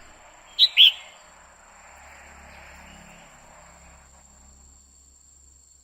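Female red-whiskered bulbul giving two short, sharp call notes in quick succession, each dropping in pitch. This is the hen's call that stirs male birds to sing.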